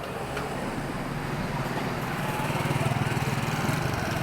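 A small engine running close by on a town street, its pulsing rumble building to its loudest about three seconds in and then easing a little, over general street noise.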